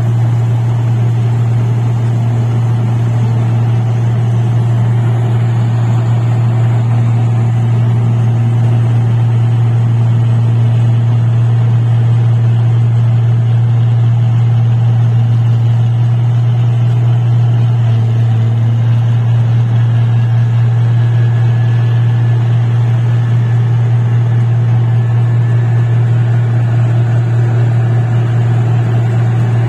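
Engine of a paddy harvesting machine running steadily with a constant low drone. A faint high whine joins about two-thirds of the way in.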